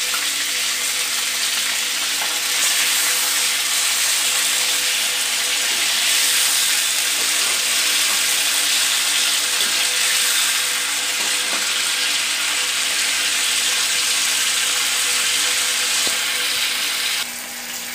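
Chicken pieces sizzling steadily in hot ghee in a wok, with the pieces turned now and then by a perforated metal skimmer. The sizzle drops suddenly shortly before the end.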